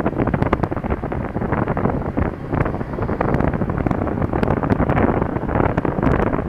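Heavy wind buffeting on an action camera's microphone while riding a scooter, a rough, gusty rush with scattered crackles and bumps.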